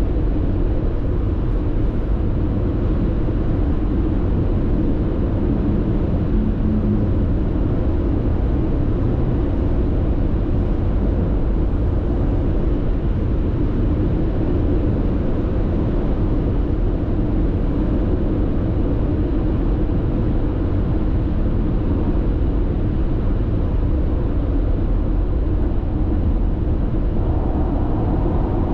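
Steady road noise of a car cruising on an expressway, heard from inside the cabin: a continuous low rumble of tyres and wind.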